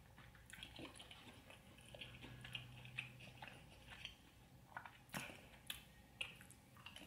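Faint, close-miked chewing of fried chicken: soft wet mouth clicks and smacks, with a few sharper smacks about five seconds in.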